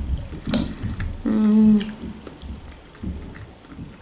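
Close-miked, wet chewing of spaghetti and sausage, with a sharp clink of a fork on the plate about half a second in. A short, steady hummed "mmm" comes about a second and a half in.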